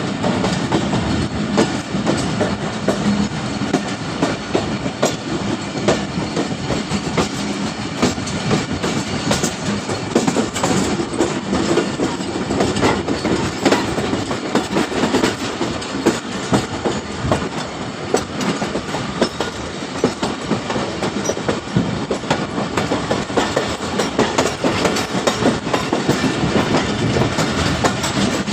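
Train wheels running over the track: a steady rumble with frequent irregular clicks and knocks from the wheels on rail joints.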